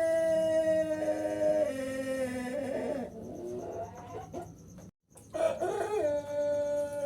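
Young Pelung rooster crowing in long, drawn-out held notes. The pitch drops about a second in and wavers for a few seconds, the sound cuts out completely for a moment near the middle, then the crow settles back into a steady held note.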